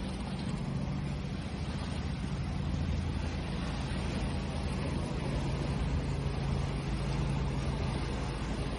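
Steady wash of ocean waves, with a low steady hum underneath.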